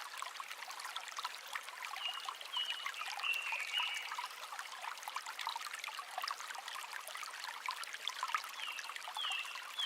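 Mountain stream water running and trickling over rocks, with small splashy ticks. Two short runs of high, slightly falling notes sound over it, around two seconds in and again near the end.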